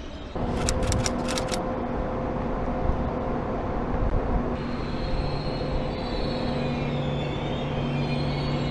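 KTX-EUM high-speed train pulling into a station and slowing, a steady rumble with low hum. A high whine comes in about halfway through and wavers slightly lower, and a quick run of sharp clicks comes about a second in.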